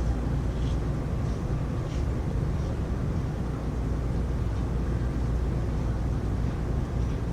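Heavy rain falling steadily, heard as an even low rush with a few faint ticks of drops.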